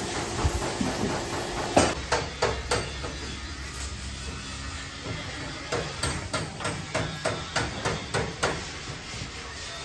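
Hammer blows on car body sheet metal during panel straightening: a quick run of four strikes about two seconds in, then a steady series of about three strikes a second from around six seconds.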